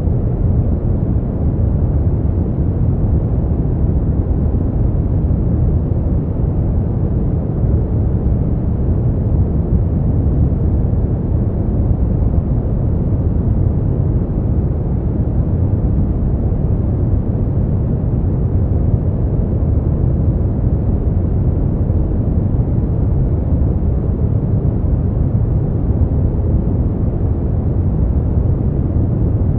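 Steady noise played for sleep or relaxation, without change: a deep, muffled rush with most of its weight in the bass and almost no hiss, closer to brown noise than to true white noise.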